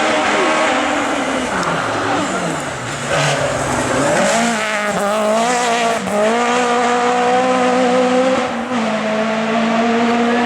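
Race car engine on a hill climb: the revs fall for about two seconds as the car brakes for a corner, then climb as it accelerates hard, with gear changes about six and eight and a half seconds in.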